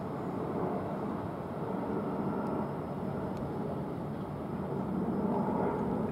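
Steady low rumble of an electric passenger train running on the main line, growing slightly louder near the end.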